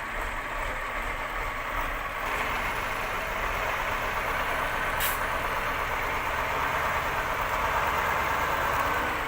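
Heavy truck engine running steadily, with a single short click about five seconds in.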